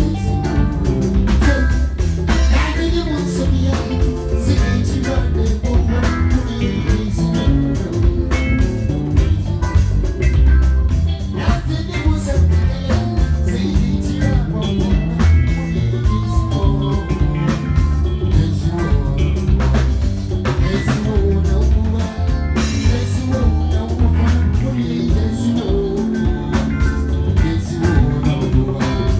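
A band playing live with drum kit, bass and guitar, and a voice singing, with a steady beat.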